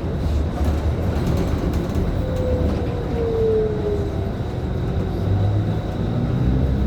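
Scania K310IB bus's five-cylinder diesel engine and driveline running under way, a steady low rumble heard from inside the bus. A brief whine falls in pitch a couple of seconds in.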